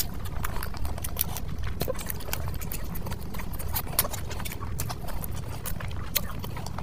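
Close-miked chewing with wet lip smacks and irregular mouth clicks, over a steady low hum.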